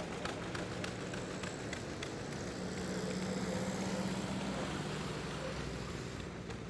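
Tractor engine running as it drives past, its low steady drone growing louder toward the middle and easing off near the end.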